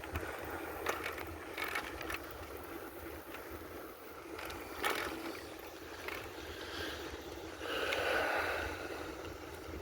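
Wind buffeting the microphone and rolling noise while riding a bicycle, with a few sharp clicks or rattles and a louder noisy swell about eight seconds in.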